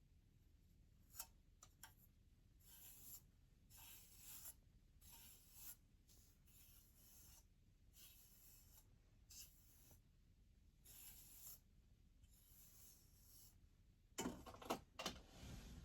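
Very quiet soft rubbing strokes, a dozen or so short swishes, with the hair dryer switched off. These are followed near the end by a few louder knocks and handling noises.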